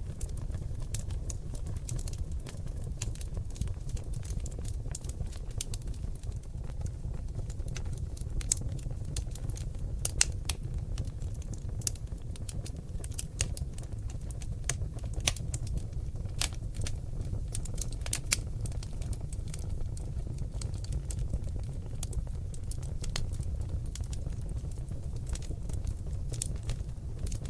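Seasoned oak logs burning in a fireplace, crackling and popping in irregular sharp snaps over a steady low rumble of the flames.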